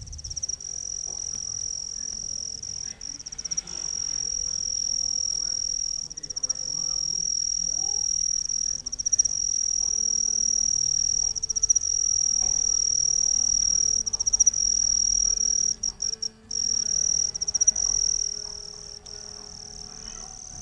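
A cricket stridulating with its wings: one continuous high-pitched trill, steady apart from a brief break about three-quarters of the way through, then cutting off suddenly at the end.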